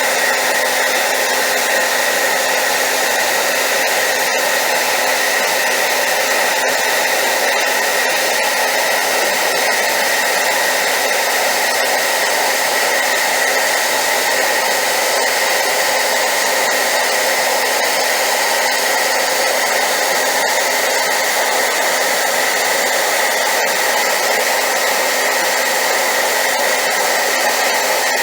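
High-power hair dryer running steadily: an even, loud rush of air with a steady motor hum and whine that doesn't change.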